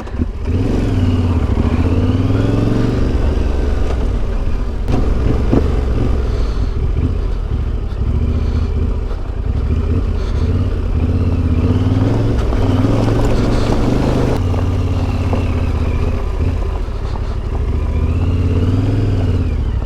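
Yamaha Ténéré 700's parallel-twin engine running as the motorcycle is ridden, the revs rising and falling several times.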